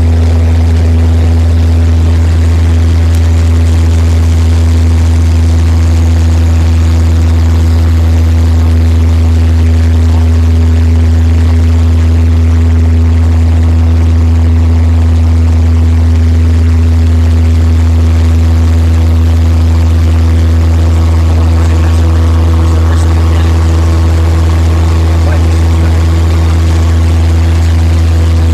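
Cessna 172 floatplane's piston engine and propeller running at a steady, unchanging setting: a loud, even drone with a strong low hum.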